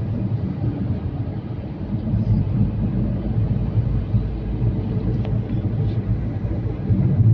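Steady low rumble of a truck on the move, engine and road noise.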